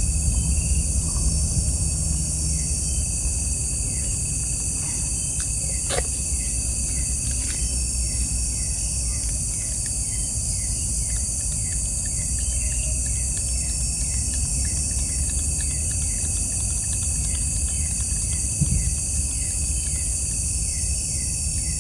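Forest insect chorus at night: a steady high shrill hiss of many insects, with one insect's short falling chirp repeating about three times every two seconds. A low rumble lies underneath, and there is a single sharp click about six seconds in.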